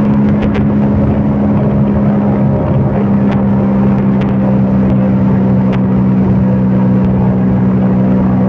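CFMOTO Papio 125 mini motorcycle's single-cylinder 125 cc engine running at a steady, fairly high engine speed while riding, with road and wind noise beneath it.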